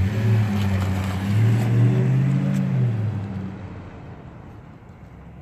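2017 Toyota Tundra's V8 engine pulling away under throttle. The note rises a little, then dies down about three and a half seconds in.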